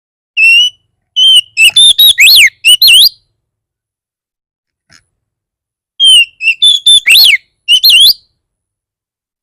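Oriental magpie-robin singing an aggressive, fierce song of loud whistled notes with quick rising and falling sweeps, in two bursts a few seconds apart: the kind of song used to provoke other magpie-robins into answering.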